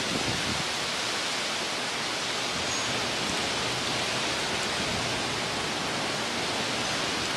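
Steady rushing hiss of a tropical storm's wind and rain, even throughout, with no gusts buffeting the microphone.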